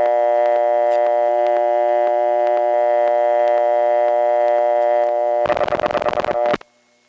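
Bell System city dial tone on a telephone line, a steady buzzy chord of many tones. About five and a half seconds in it gives way to a second of choppy rotary-dial pulsing, then the line goes quiet apart from a faint hum.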